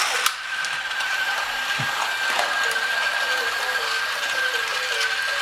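Battery-powered Duplo toy train running on its plastic track: a steady motor whine with the wheels and cars clattering. About halfway in, a simple repeating tune joins it.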